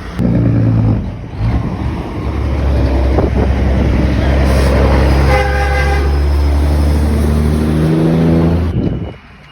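Semi-truck air horn blowing: a short blast, then one long held blast that cuts off suddenly near the end.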